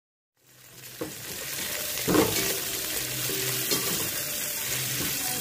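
Mint and coriander leaves sizzling in hot oil with fried onions and whole spices in a stainless steel pot, stirred with a metal perforated ladle that scrapes and clinks against the pot. The sizzle fades in about half a second in and runs steadily, with the loudest clink about two seconds in.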